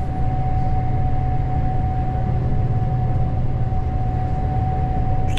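Gleaner S98 combine running while harvesting corn, heard from inside the cab: a steady engine and machinery drone with a constant high whine.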